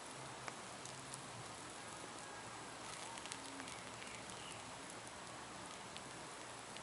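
Campfire burning with a steady hiss and scattered sharp crackles and pops, a small cluster of them about three seconds in.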